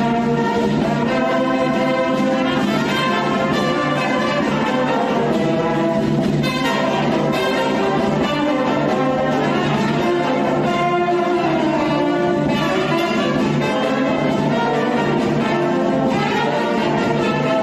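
A band playing at rehearsal: an instrumental melody line moves in steps over steady accompaniment, loud and without a break.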